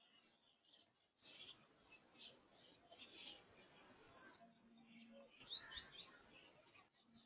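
Small birds chirping: scattered high chirps, then a fast run of rapid high chirps starting about three seconds in, loudest near the middle, which fades out toward the end.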